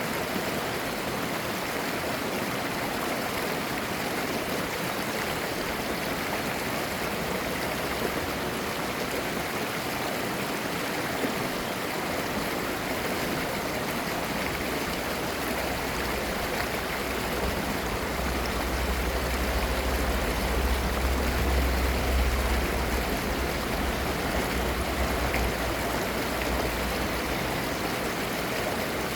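Mountain valley stream flowing and babbling, a steady rush of water. A low rumble swells up about halfway through and eases off again.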